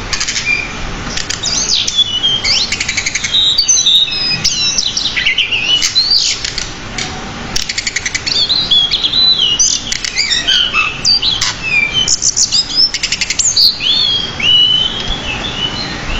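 Pied bushchat singing continuously: a varied song of quick chirps, sliding whistled notes and fast rattling trills.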